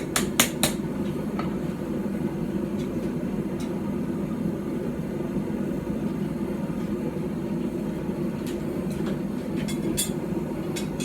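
Four quick, sharp hammer blows on steel in the first second, then a steady low rumble, with a few lighter clicks near the end.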